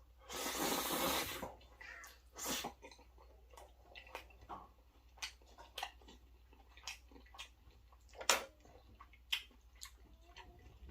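Close-miked eating sounds: wet chewing and mouth clicks at irregular intervals, with a louder breathy rush lasting about a second near the start.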